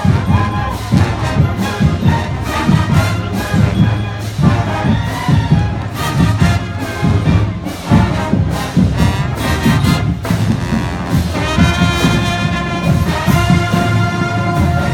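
Marching band playing: brass horns (trombones and trumpets) over a steady drum beat. In the last few seconds the horns hold long sustained chords.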